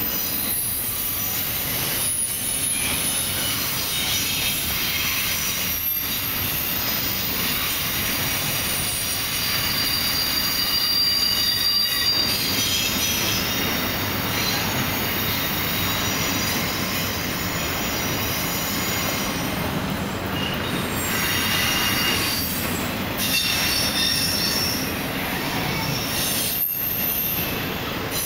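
Double-stack intermodal freight cars rolling steadily past, their steel wheels squealing on the rail with several high-pitched tones that shift and come and go over the steady rolling noise.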